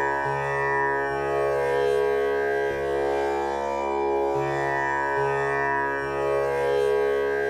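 Tanpura drone tuned to C# for a male voice: strings plucked in a slow repeating cycle, their buzzing overtones blending into one steady, shimmering hum.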